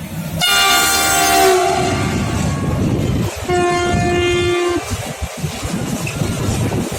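Freight train locomotive sounding two horn blasts, the first just after the start and the second about three and a half seconds in, each lasting a little over a second, over the loud steady rumble of the passing train.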